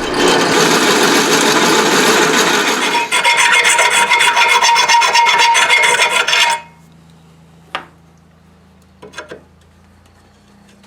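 A hand tool working the edge of a drilled hole in a steel square tube to enlarge it, a continuous scraping that changes character about three seconds in and stops abruptly after about six and a half seconds. Two light clicks follow.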